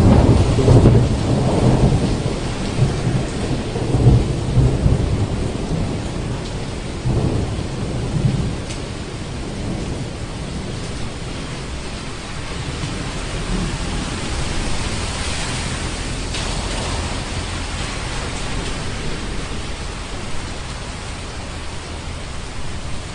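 Thunderstorm: a rolling rumble of thunder that dies away over the first several seconds, over steady rain.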